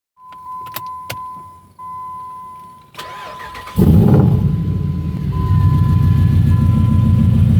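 Jeep engine cranking briefly and catching about four seconds in, then idling loudly through a dual 3-inch exhaust fed by long-tube headers and high-flow cats. Before it starts, a steady electronic chime with a few sharp clicks.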